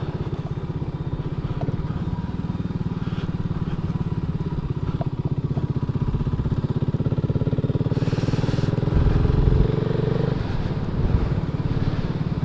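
BSA Gold Star's 652 cc single-cylinder engine running under way. Its note rises steadily over several seconds as the bike accelerates, then drops back about ten seconds in.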